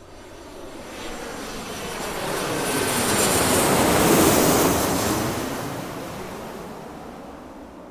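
Airplane passing by: a noisy roar that builds to a peak about four seconds in and then fades away.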